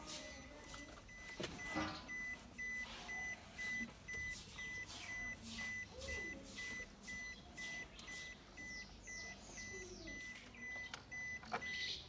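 Car's electronic warning chime beeping steadily at one high pitch, about two beeps a second, over scattered rustling and knocks.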